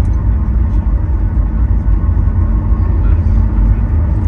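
Steady low rumble heard inside the cabin of a Boeing 737 MAX 8 as it taxis, its CFM LEAP-1B engines at idle.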